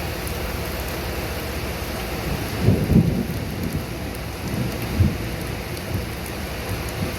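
Steady rain falling, with thunder rumbling low, loudest about three seconds in and again, more briefly, at about five seconds.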